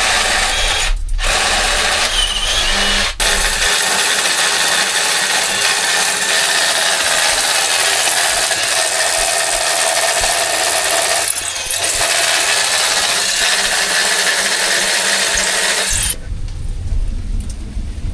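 Power drill boring holes into the cave's rock, running loud and nearly continuously with two brief pauses in the first few seconds. Near the end it cuts off abruptly and a low rumble takes over.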